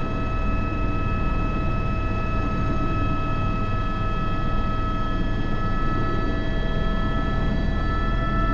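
Airbus H125 (AS350 B3) helicopter heard from the cockpit while flying a sling load: steady turbine and gearbox whine of several held tones over the even noise of the rotor, with no change in power.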